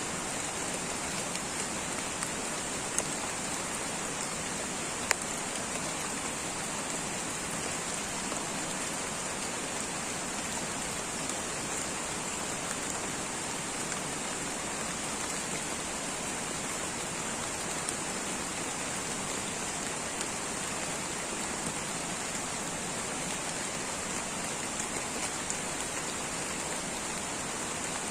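Light rain falling steadily, an even hiss with a steady high-pitched band above it and now and then a single sharper drop tick, the loudest about five seconds in.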